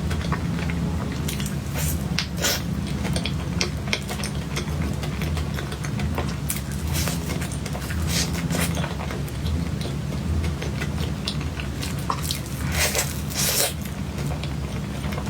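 Close-miked chewing of soft cake: wet, squishy mouth sounds and irregular small clicks and smacks, over a low steady hum.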